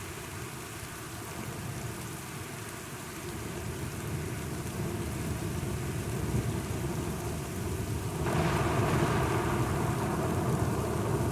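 Steady rain with a low rumble of thunder swelling from about four seconds in. About eight seconds in, the storm suddenly grows louder.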